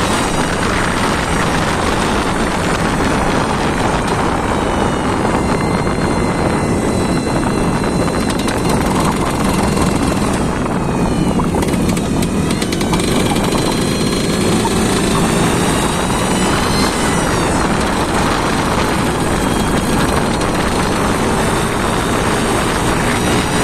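An engine running loudly and steadily on test, its note dipping and climbing back about halfway through.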